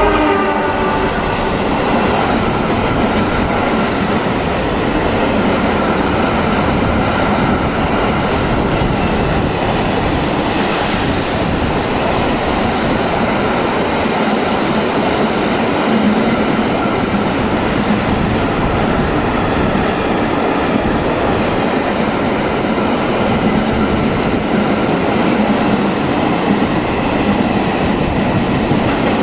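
A freight train's wagons rolling past at speed: a loud, steady rush and rattle of steel wheels on the rails, after a pitched tone from the locomotive fades out within the first second.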